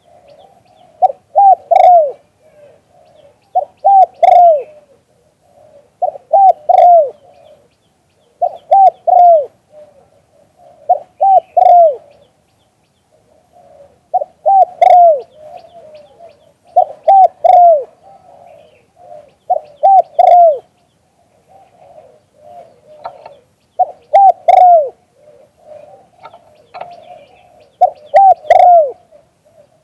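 Spotted dove cooing: a phrase of a few short coos, each bending down at its end, repeated roughly every two to three seconds, with softer cooing between phrases.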